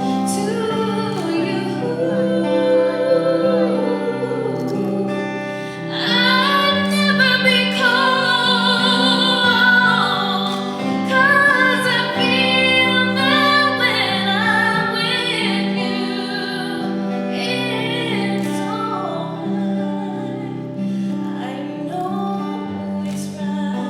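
A woman singing a ballad live over a sustained instrumental accompaniment; her voice swells louder about six seconds in and stays strong before easing off near the end.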